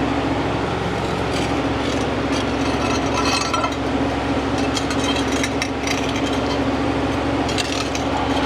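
A machine runs with a steady hum, under scattered clinks and scrapes of tire work.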